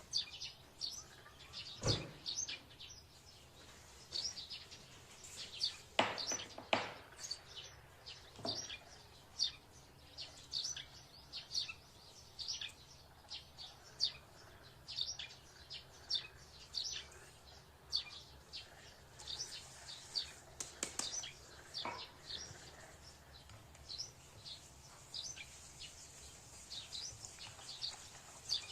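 Small birds chirping and tweeting over and over in quick short notes, with a few sharp knocks, the loudest about two and six seconds in.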